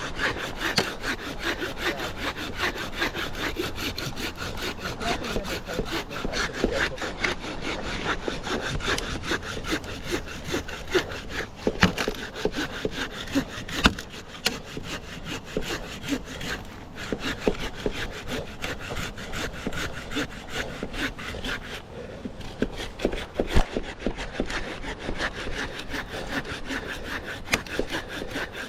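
Hand saw cutting through a fallen log in steady back-and-forth strokes, the teeth rasping through the wood, with a few sharp knocks along the way.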